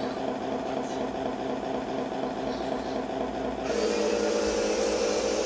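Radio-controlled Scania model truck running with a steady mechanical hum from its small motor. About two-thirds of the way through, the sound steps up in pitch and gets louder as the truck speeds up.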